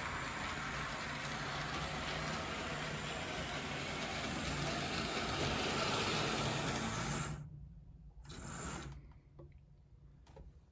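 Small electric toy train locomotive running on its track, a steady motor hum with running noise, stopping abruptly about seven seconds in; a brief faint noise follows a second later.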